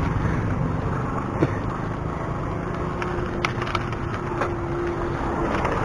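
Wind and road rumble while riding a bicycle, heard on the microphone. A faint steady hum comes in about halfway through and fades near the end, with a few light clicks along the way.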